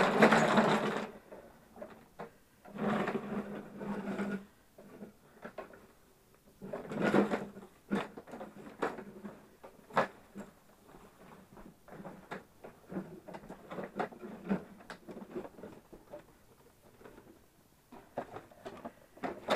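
Equipment being shifted around by hand: scraping and rattling in a few short bursts, with scattered knocks and clicks between them.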